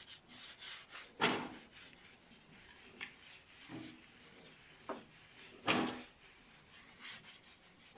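Wet paper loaded with baking soda rubbed over sooty fireplace door glass: short, irregular scrubbing strokes, two of them louder, about a second in and just before six seconds.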